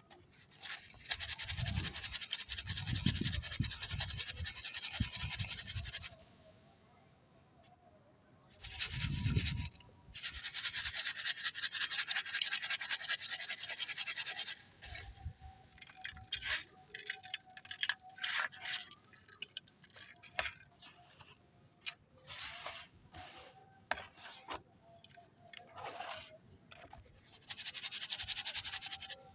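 Dry clay being crushed and crumbled into grit, in three long runs of dense, fine crunching. Between the later runs come scattered crisp cracks, and dull thuds sit under the first run and come again about nine seconds in.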